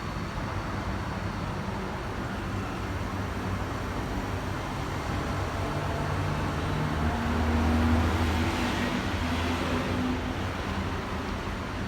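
Steady rush of road traffic noise, with a vehicle engine hum that swells to its loudest about eight seconds in and then fades.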